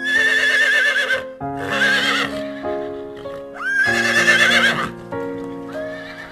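Horse whinnying three times, each call a wavering, shaky neigh about a second long, with a fourth starting near the end, over background music with held notes.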